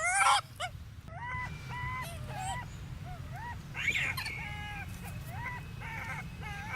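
A monkey calling over and over: short, high, crying calls that rise in pitch, about two a second.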